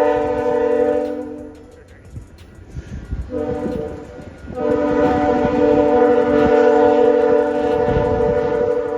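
Train horn sounding a chord of several steady notes in two long blasts: the first fades about two seconds in, and the second starts about three seconds in and is held to the end.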